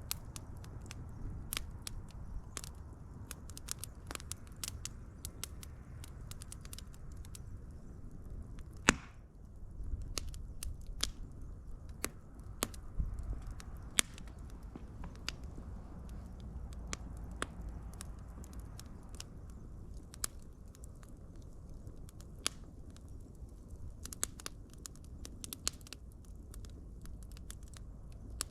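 Wood fire crackling: irregular sharp pops and snaps over a low steady rumble of flame, with one louder pop about a third of the way in.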